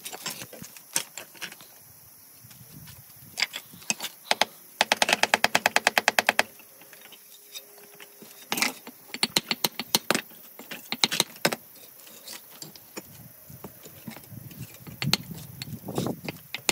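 Sharp taps of hand tools on stone: scattered knocks, with a quick run of about a dozen even taps, roughly nine a second, near the middle.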